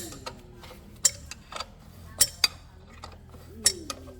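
Sharp metallic clicks and clinks of hand tools on metal parts during motorcycle repair work, irregular and roughly one every half second to a second.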